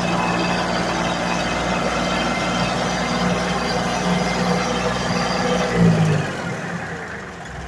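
Ford 1720 compact tractor's three-cylinder diesel engine running steadily, then its pitch drops and it goes quieter about six seconds in, as if throttled down.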